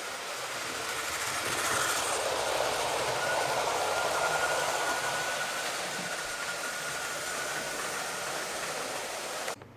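Hornby 00 gauge Gresley A4 model locomotive with a ringfield motor in its tender, running at full speed round the track: a steady rush of wheels on rail with a faint motor whine. It grows louder a couple of seconds in and eases off, then cuts off suddenly near the end.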